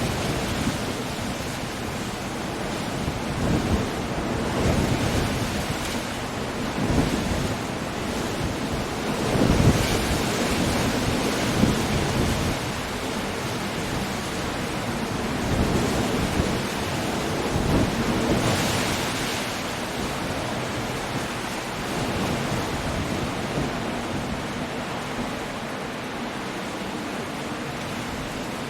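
Coastal storm: steady heavy rain and wind over breaking sea waves, with repeated deep rumbles swelling up through the first two-thirds, then easing to a steadier, softer wash near the end.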